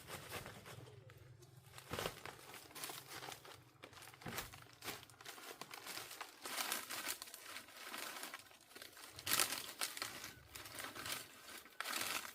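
Crinkling and rustling made up of dense, irregular crackles, with louder flurries every few seconds.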